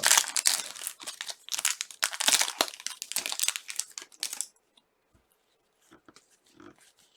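A trading-card pack wrapper being torn open and crinkled, dense crackling for about four and a half seconds, then only a few faint soft rustles and clicks of cards being handled.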